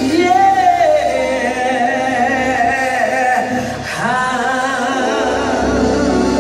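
Amplified live gospel singing: a singer holding long notes with heavy vibrato over sustained keyboard chords, the low bass dropping out for a moment in the middle.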